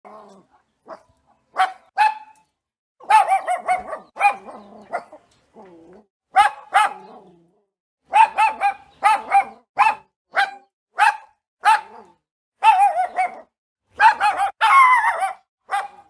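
Boston Terrier barking over and over: short, high-pitched barks, many in quick pairs and threes, fainter in the first couple of seconds, with one longer, wavering bark near the end.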